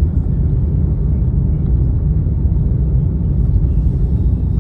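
Strong blizzard wind buffeting the microphone: a steady low rumble.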